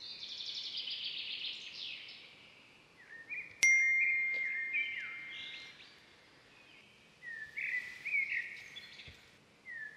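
Birds singing and chirping, with repeated whistled and warbling phrases. About three and a half seconds in comes a single sudden bright ping, the loudest sound here, which rings on steadily for about two seconds.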